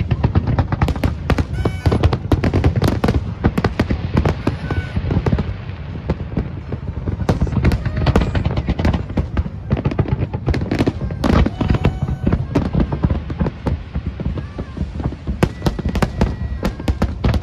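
Large fireworks display: a dense run of bangs and crackling shell bursts over a continuous low rumble.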